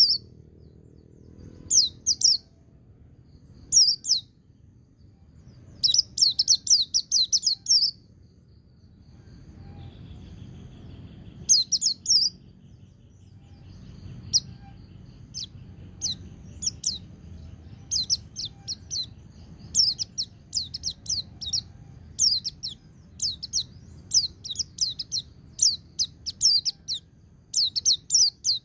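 White-eye (pleci) singing in short, rapid, high-pitched trilled phrases, each about a second long and repeated every second or two, coming closer together in the second half. A low background rumble sets in about a third of the way through.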